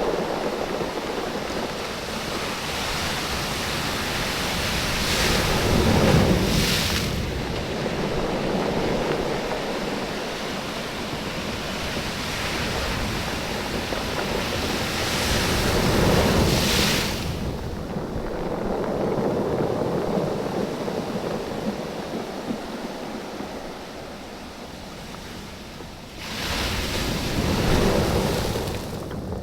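Waves washing in and out over a beach of rounded oval stones, the stones clattering and rattling against each other as the water surges and draws back. Three louder surges come about ten seconds apart.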